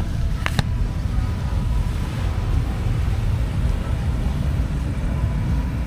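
Steady low rumble of a vehicle driving, with two or three sharp clicks in the first second.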